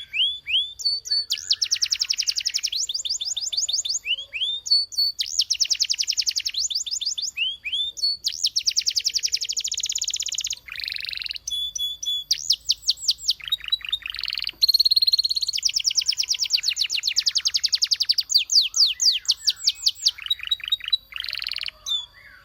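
Canary singing a long song of rapid trills, fast runs of repeated notes in phrases of a second or two, linked by short gliding whistled notes.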